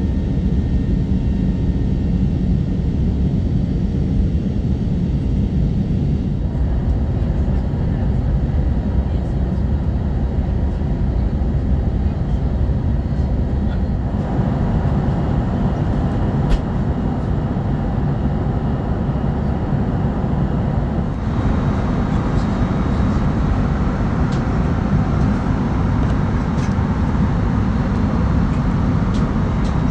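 Steady cabin noise inside an Airbus A320neo in flight: the rumble of its Pratt & Whitney geared turbofan engines and the rush of air along the fuselage. The tone of the noise shifts a few times.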